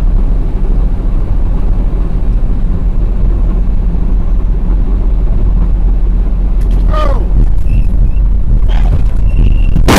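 Steady low rumble of a vehicle on the road, heard as dash-cam engine and road noise. A short falling squeal comes about seven seconds in, and a brief high tone near the end.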